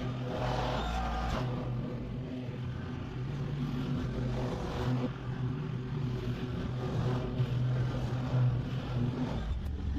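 Small gas engine running at a steady speed, with an even hum that holds throughout.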